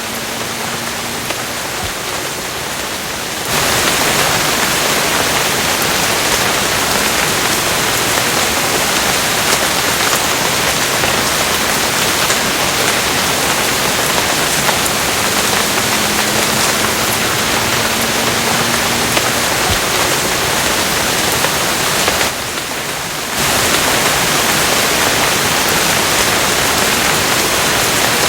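Steady heavy rain, an even hiss. It gets abruptly louder about three and a half seconds in, drops back for about a second near the twenty-two-second mark, then jumps up again.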